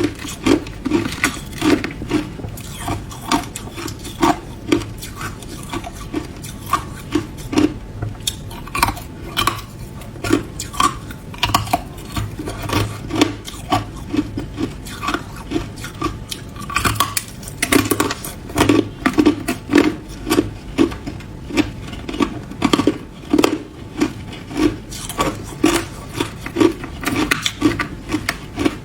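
Ice being chewed: a steady run of crisp crunches, about two a second.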